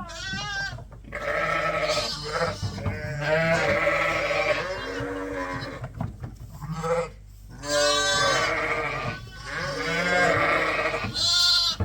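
Sheep bleating: many ewes and lambs calling over one another, higher and lower voices overlapping, with a couple of short lulls.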